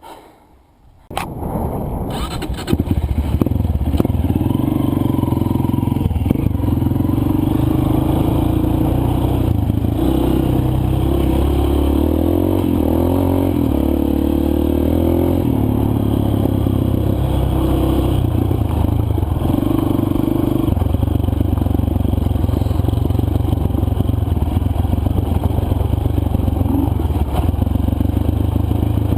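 A single-cylinder four-stroke dirt bike engine comes in about a second in and then runs loudly and steadily under way, its pitch rising and falling as the throttle opens and closes on the trail.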